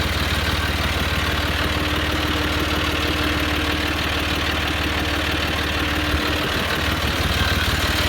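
John Deere 5055E tractor's three-cylinder diesel engine running steadily, its low note wavering briefly about six seconds in.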